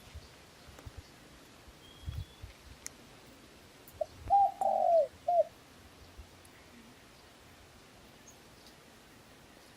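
A dove cooing once: a short phrase of four low notes about four seconds in, the third note the longest. A faint, brief high bird whistle sounds a couple of seconds earlier.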